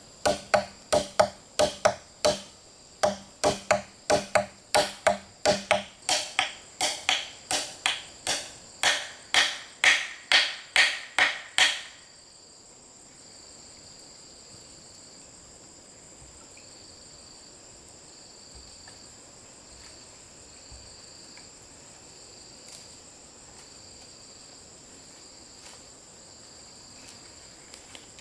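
Some two dozen sharp chopping or hammering blows of a hand tool on wood, about two a second, stopping about twelve seconds in. Insects trill steadily throughout as two high, constant tones.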